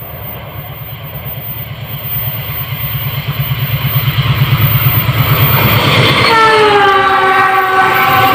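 CC 206 diesel-electric locomotive approaching at speed with a long passenger train: a low engine throb and the running noise of the wheels grow steadily louder. About six seconds in it sounds its horn, which slides down in pitch as the locomotive passes and is still sounding at the end.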